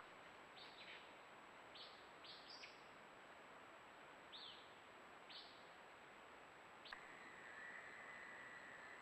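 Faint bird chirps: several short, high, downward-sliding notes scattered irregularly, then one steady high whistle held for about two seconds near the end, over the steady hiss of a trail camera's microphone.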